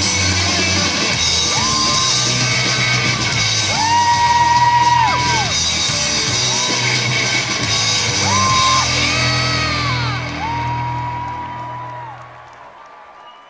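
Live rock band playing, with a steady bass line and long held notes that bend up and fall away, possibly from a guitar or a singing voice. The music dies away near the end as the tune finishes.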